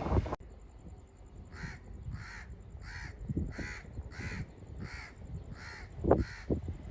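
A bird calls in a steady series of about ten short calls, roughly two a second, over a low rumble. Train noise stops abruptly just at the start, and there is a low thump near the end.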